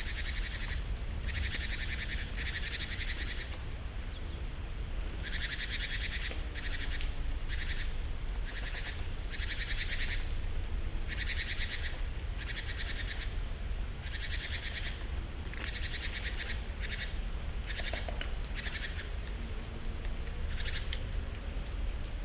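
A bird giving a long series of short, buzzy, rattling calls, each under a second long and repeated roughly once a second, fading out about three seconds before the end. A steady low rumble runs beneath.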